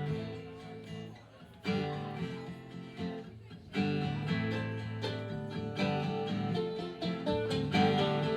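Acoustic guitar strumming chords: a couple of single chords left to ring about two seconds apart, then steady strumming from about four seconds in.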